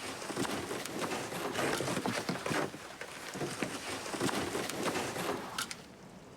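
A loaded kayak being pushed and dragged over sea ice: irregular scraping, knocking and crunching of the hull on the ice, which stops near the end.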